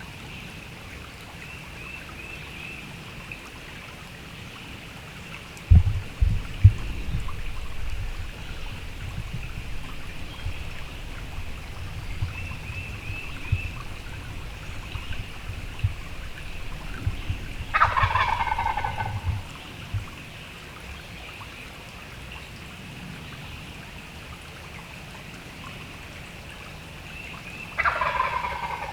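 A wild turkey gobbler gobbles twice, about 18 seconds in and again near the end. Each gobble is a rattling call about a second and a half long that falls in pitch. Between about 6 and 19 seconds, low thumps and rustling run under the quiet.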